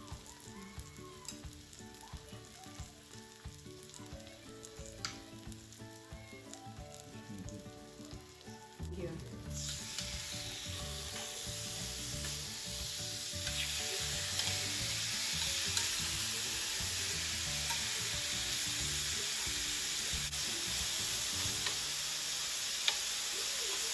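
Peppers, zucchini and mushrooms sizzling on a Starfrit 'The Rock' electric griddle. The sizzle is soft at first and grows louder from about nine seconds in, then holds steady.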